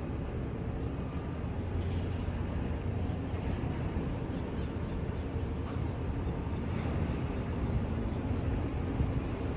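Steady low rumble of a cruise ship under way, with a brief hiss about two seconds in.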